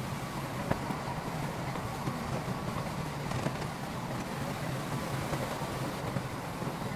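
Heavy earthmoving machinery running, a steady diesel engine drone, with a few sharp metallic clanks: one just under a second in and two more around three and a half seconds in.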